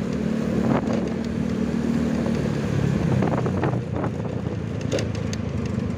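Motorcycle engine running steadily at low speed, heard from the rider's seat with wind on the microphone; its pitch drops slightly about halfway through.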